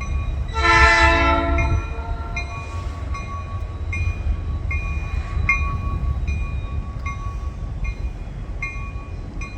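A locomotive horn gives one short blast about half a second in, over the steady low rumble of the passing train, while a railroad crossing bell dings evenly, about one and a half strokes a second.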